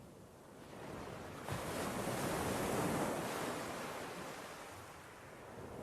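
Sea waves breaking on a shore: a wave surges in about a second and a half in, swells, then washes out and fades.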